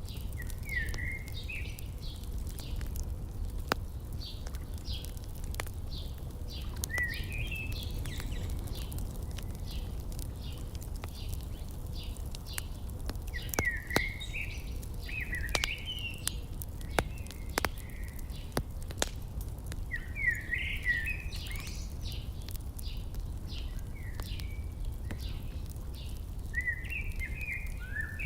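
Wood fire crackling with scattered sharp pops, while songbirds sing short chirping phrases every few seconds over a steady low rumble.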